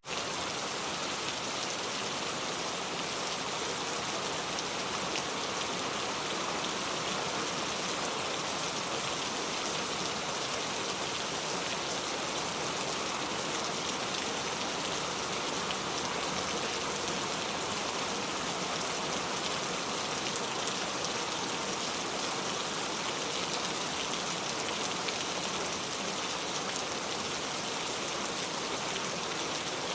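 Steady rain falling, a dense even patter of drops with no change in strength.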